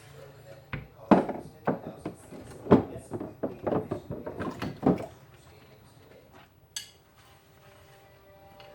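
Dishes and utensils knocking and clattering, a string of sharp knocks over the first five seconds, then quieter.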